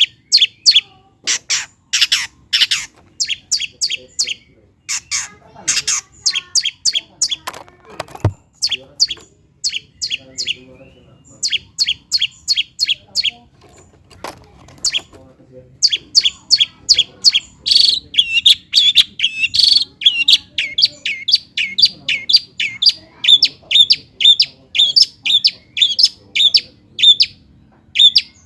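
Long-tailed shrike (cendet) singing a fast run of short, sharp repeated notes. The notes come in uneven clusters at first, then settle into a steady string of about four a second. There is a single low thump about eight seconds in.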